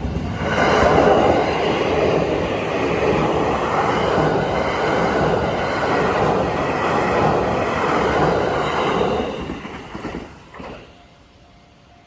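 Train passing over a level crossing: a loud rush of wheel and running noise that begins about half a second in, holds steady for about nine seconds, then dies away as the train clears, gone by about eleven seconds in.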